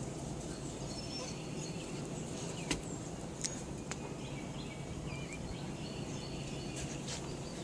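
Outdoor ambience: a steady low hum with scattered short bird chirps in the distance, and a few sharp clicks, the loudest about a third of the way in.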